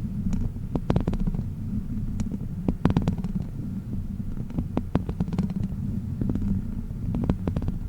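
Close-miked handling of a squishy 'witch finger' toy: a low, steady rumble with scattered sticky clicks and crackles.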